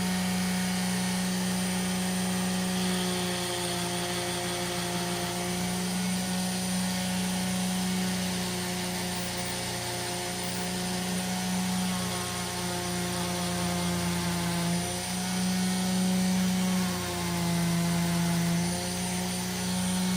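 Foredom flex-shaft rotary tool running steadily with a soft metal brush, cleaning the tang and bolster of a pocketknife. It gives a constant hum, and its pitch drops for a couple of seconds near the end.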